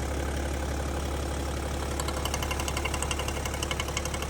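BMW M57 straight-six diesel idling, with a rapid, even knocking that sets in about two seconds in. The knocking comes from the engine's vacuum pump, not from inside the engine, and is typical of the M57.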